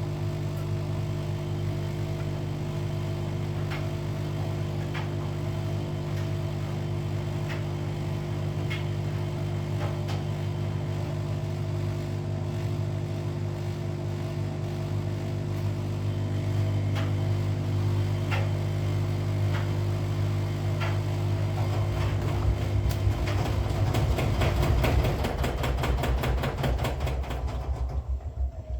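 Washing machine running: a steady motor hum with scattered sharp ticks. About two-thirds of the way through the sound grows louder and the ticking comes faster, then it starts to die away at the very end.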